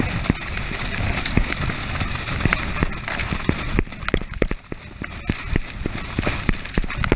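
Wind rush and buffeting on the microphone of a moving motorboat, with frequent short knocks and thumps as the boat bounces over waves.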